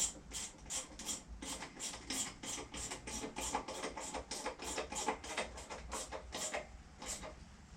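Socket ratchet clicking in a steady run of about three to four clicks a second as the 7mm coil pack bolts are tightened; the clicking stops shortly before the end.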